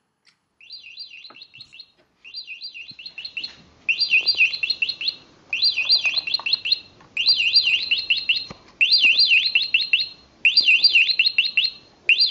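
Bird-chirp alarm of a nature alarm clock going off: bursts of rapid high chirping, each about a second and a half long, repeating evenly. The first two bursts are softer and it gets louder about four seconds in.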